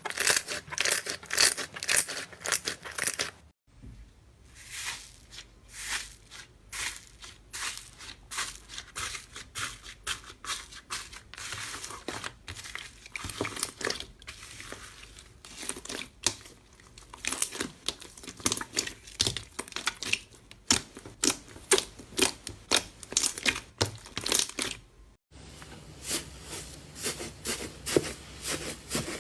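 Slime being squeezed, stretched and pressed by hand, making a dense run of crackling pops and clicks as air pockets burst. It breaks off twice for a moment.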